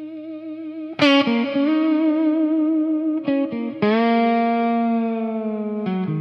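Instrumental music intro: a wavering held tone, then an electric guitar with effects comes in about a second in, playing a few slow, long notes that ring and slowly fade.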